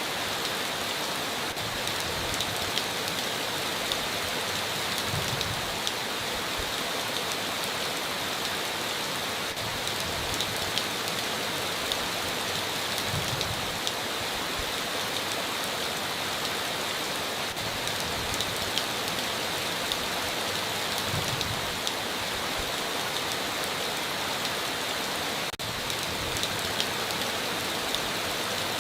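Heavy rain falling steadily on a tin roof, with scattered sharper drop hits and a brief low thud about every eight seconds.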